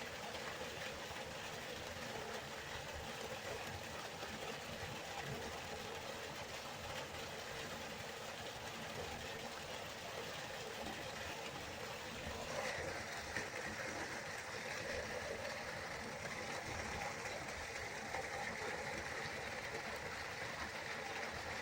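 River water flowing in a steady rush. About halfway through it grows a little brighter and louder.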